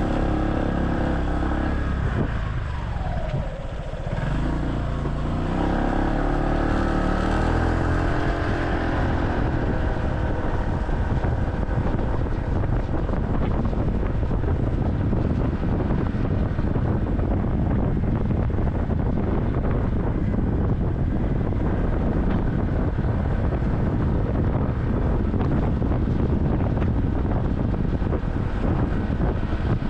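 A motorcycle riding through traffic: for the first eight seconds or so its engine is heard with the pitch rising and falling, including a dip about three seconds in. After that, wind buffeting the microphone and road rumble cover it as the bike rides on.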